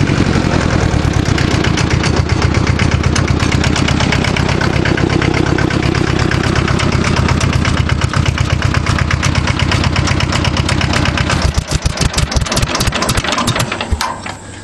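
Bolens G192 tractor's two-cylinder Isuzu diesel running steadily, then chugging slower and dying away near the end as it is shut off.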